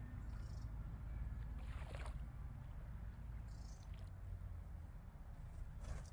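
Faint bird calls: a few short, high notes over a steady low background rumble, with two brief rushing sounds about two seconds and six seconds in.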